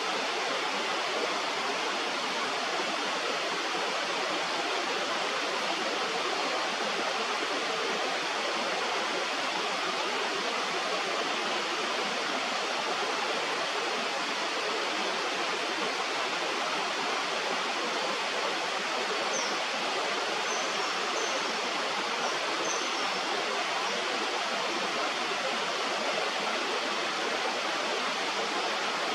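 Steady rushing of a river, with a few brief, faint high chirps about two-thirds of the way through.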